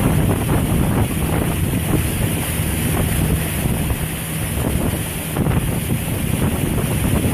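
Wind buffeting the microphone, with the low steady drone of a whelk fishing boat's engine underneath.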